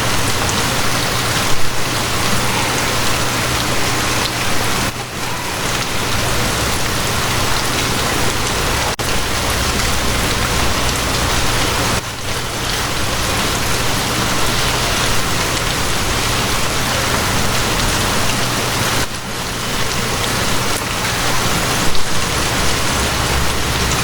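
Steady rain falling, an even, dense hiss with a low rumble underneath.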